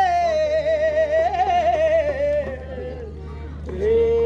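A singer holding a long, ornamented note with a wavering vibrato that slides slowly downward, then starting a new held note near the end. Under it runs a steady low hum.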